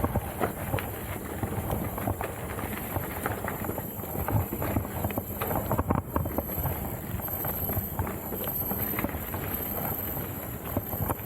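Mountain bike rolling over a rough trail, with tyres on dirt, rock and roots and a constant clatter of frequent knocks and rattles from the bike.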